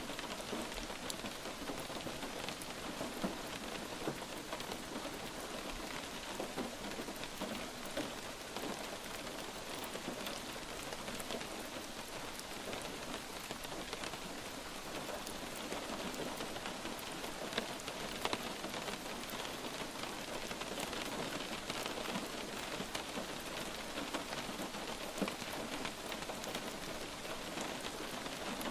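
Steady light rain falling on a surface, a dense even patter of drops with scattered sharper drop ticks.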